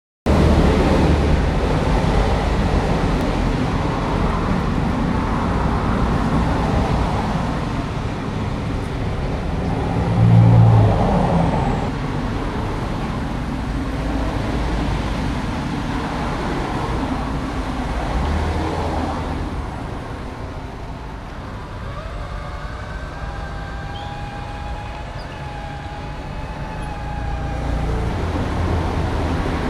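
Radio-controlled model bulldozer running as it grades: steady mechanical motor and drive noise with a low rumble. There is a brief louder low bump about ten seconds in, and a wavering whine in the second half.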